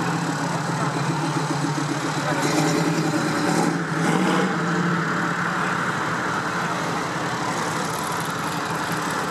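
Car engines running as cars drive slowly past at low speed. One passes closest, loudest about three to four seconds in.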